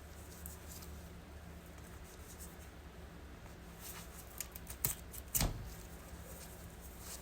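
Faint knife-and-hide handling sounds while an otter is being skinned: small cutting, scraping and rustling noises, with two sharp louder knocks about five seconds in, over a steady low hum.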